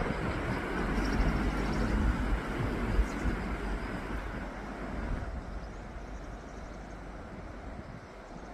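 A low, rushing outdoor noise with heavy rumble, loudest for about the first five seconds and then fading away.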